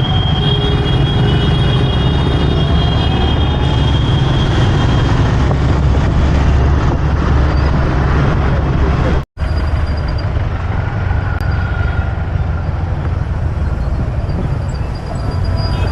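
Road noise of city traffic heard from a motorcycle on the move: a steady low rumble of engines, with a high drawn-out tone in the first few seconds. The sound cuts out completely for an instant about nine seconds in.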